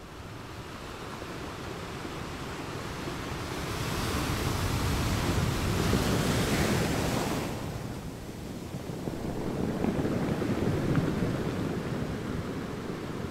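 Small waves washing up over a sandy beach, with wind on the microphone. The sound swells twice: a louder hissing wash about four seconds in, then a lower, duller surge near ten seconds.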